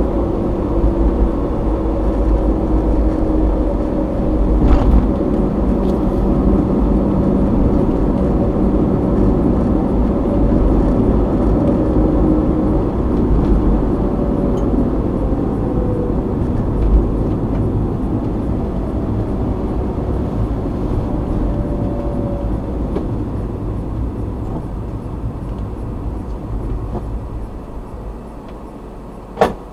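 Car driving on a road, heard inside the cabin through a dashcam: steady road and engine noise with a faint hum. The noise fades over the last several seconds, and a single sharp click comes just before the end.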